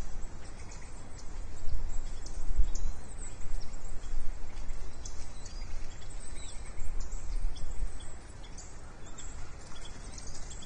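Outdoor nest-cam audio: a steady low rumble on the microphone with a few stronger bumps, and many short high bird chirps scattered throughout.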